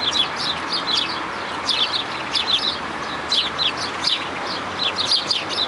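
A group of small birds chirping: many short, quick, overlapping chirps, over a steady background hiss.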